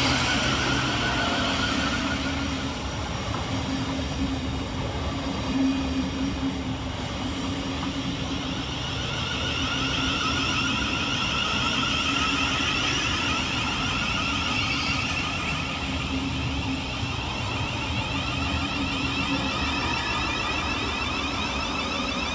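Class 700 Thameslink electric multiple unit running through the station on arrival, a steady rumble of wheels on rail under a continuous electric traction whine.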